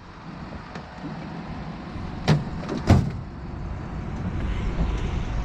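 A vehicle engine running with a steady low rumble that slowly grows louder. Two sharp, loud clunks come about two and three seconds in.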